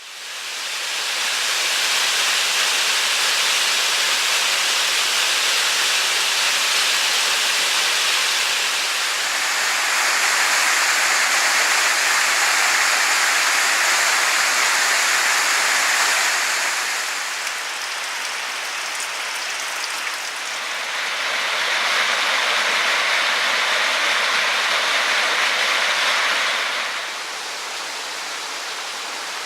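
A waterfall: steady rushing, splashing water. Its loudness shifts a few times and drops a little near the end.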